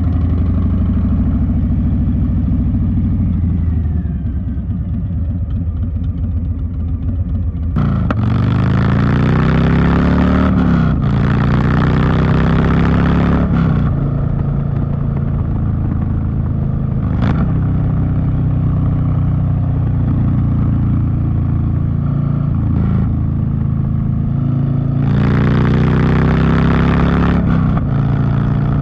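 Harley-Davidson Street Bob's V-twin engine running through a TBR 2-into-1 exhaust while riding. It cruises steadily, then opens up about a third of the way in, the pitch rising through a gear change before easing off, and opens up again near the end.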